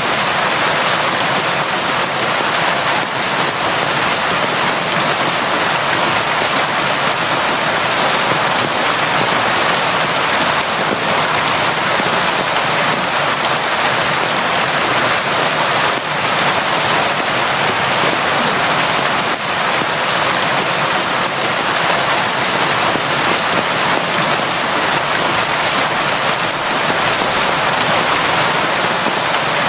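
Steady, heavy rain falling and pattering on surfaces, an even dense hiss that keeps up without letting off.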